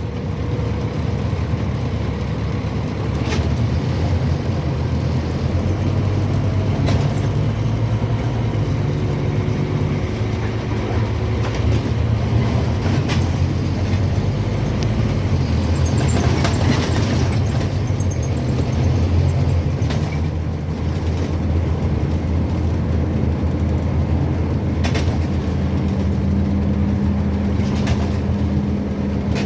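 Scania N230UB OmniCity single-deck bus heard from inside while under way: its engine drones steadily, changing pitch as the bus speeds up and slows, with a rising tone near the end. A few sharp clicks or knocks from the body are scattered through.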